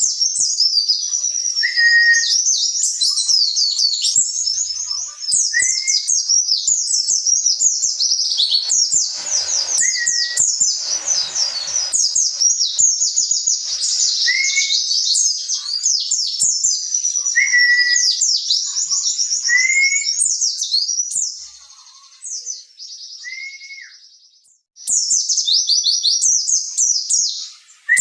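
White-eye (pleci) singing a fast, high-pitched twittering song, mixed with short separate lower whistles every few seconds. The song falls away and stops briefly near the end, then starts again.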